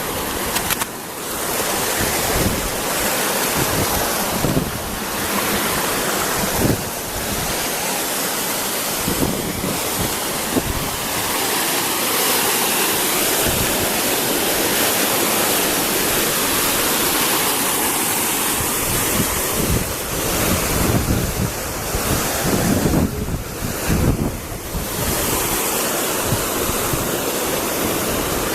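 Waterfall rushing in a loud, steady roar of falling water, with wind buffeting the microphone in irregular low gusts, heaviest near the end.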